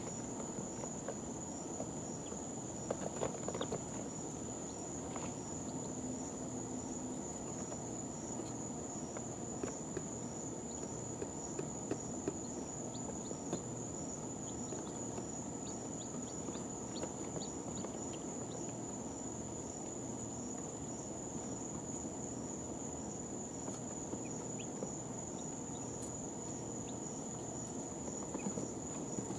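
Scattered faint short cheeps from two-day-old chicks, heard over a steady high-pitched tone and a low hiss.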